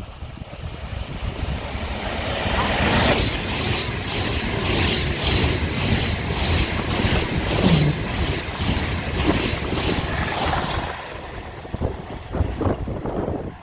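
A train passing the station, its wheels clattering in an even rhythm of about two beats a second as the cars go by, the sound building up and then fading, with wind buffeting the microphone.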